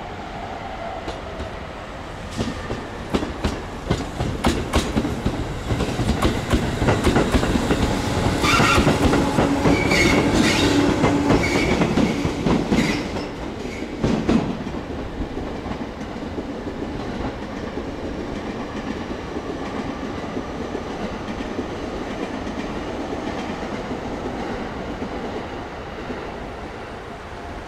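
Electric train passing, its wheels clicking rhythmically over the rail joints, building up and loudest midway, with a brief high wheel squeal, then fading to a steady rumble.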